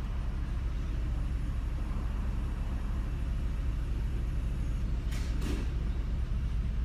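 Steady low rumble of a car, heard from inside the cabin, with two brief hissing sounds about five seconds in.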